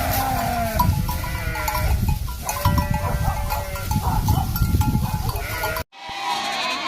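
A flock of sheep bleating, many overlapping calls over a low rumbling noise. It cuts off abruptly near the end.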